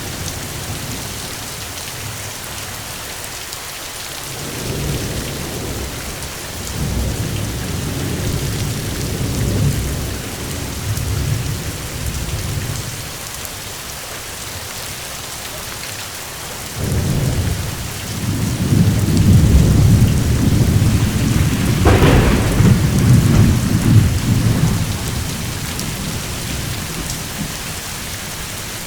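Steady heavy rain hissing, with two long rolls of low thunder. The first starts about five seconds in; the second comes after about seventeen seconds, is louder and has a sharp crack in the middle.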